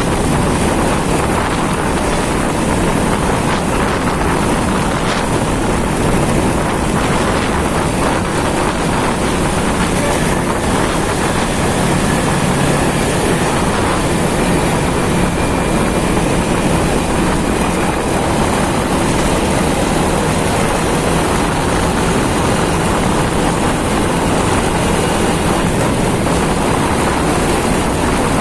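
Steady rush of wind on the microphone of a moving motorcycle, mixed with road and engine noise.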